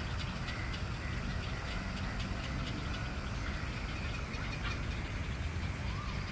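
Steady low rumble with faint, rapid bird chirps and clicks over it, and a short rising call near the end; no loud call stands out.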